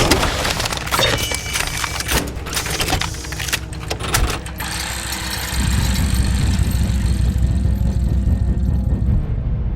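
Indian Thunder Stroke 111 air-cooled V-twin motorcycle engine running, with a rapid run of sharp clicks and clatter over the first few seconds. The rumble grows fuller and louder about five and a half seconds in.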